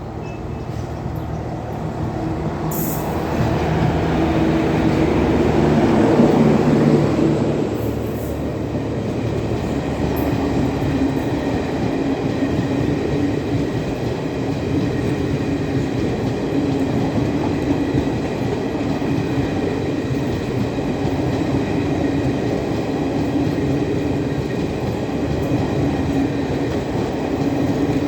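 Express train passing at speed behind a WAP-4 electric locomotive. The noise swells to its loudest about six seconds in, as the locomotive goes by with a steady hum, then the coaches roll past with continuous wheel rumble and rail clatter.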